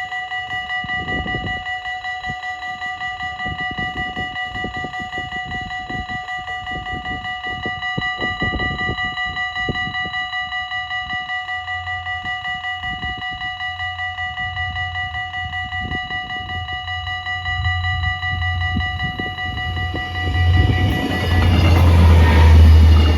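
Electronic level-crossing bells ringing rapidly and continuously at an automatic half-barrier crossing. From about halfway a low rumble of an approaching GTW diesel railcar builds, growing loud as the train passes near the end.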